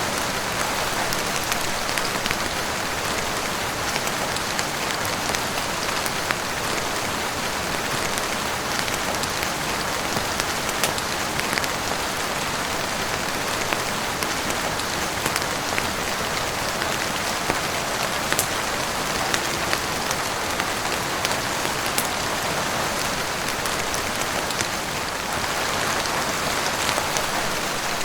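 Steady heavy rain falling on a roof and windows, an even dense hiss with scattered sharp clicks throughout.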